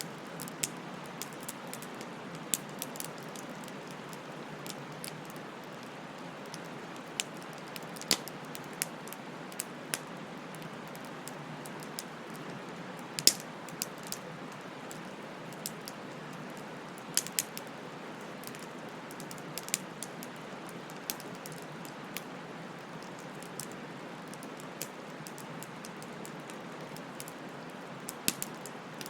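Wood fire burning, with a steady low hiss and irregular sharp crackles and pops as the wood splits, a loud pop about halfway through.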